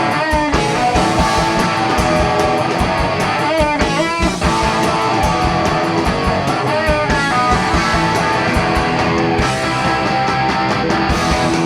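Live rock band playing an instrumental passage between sung lines: distorted electric guitars, bass and drums with a steady beat.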